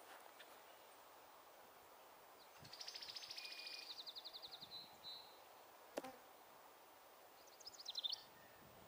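A songbird's high, rapid trill of fast repeated notes lasting about two and a half seconds, with a shorter trill near the end. A single sharp click comes between them.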